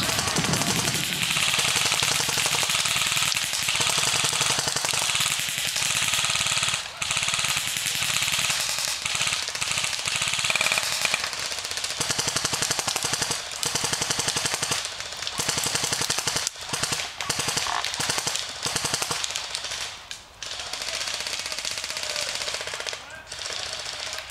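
Rapid automatic gunfire: long bursts of many shots a second, with a few short breaks between bursts.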